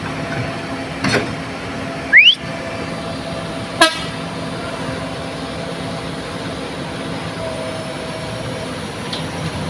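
Heavy truck engine running steadily as the loaded truck makes another attempt to climb the broken road. A short sharp noise about a second in, a loud rising whistle about two seconds in and a brief horn toot near four seconds cut in over it.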